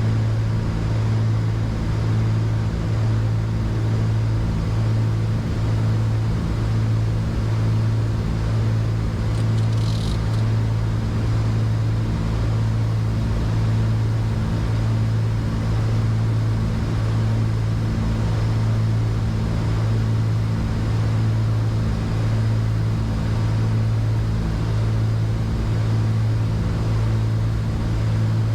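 Steady cabin drone of a Cessna 310Q's two piston engines and propellers, descending on approach with gear down, with a slow, even pulsing in the low tone. A brief faint high tone sounds about ten seconds in.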